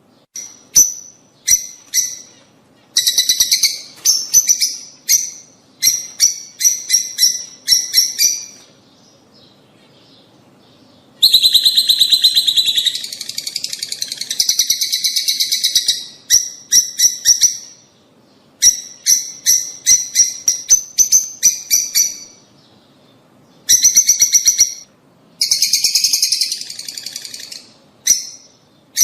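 Lovebirds calling: runs of shrill, rapidly repeated chirps, with a long stretch of continuous chattering about a third of the way in and a shorter one near the end, broken by brief pauses.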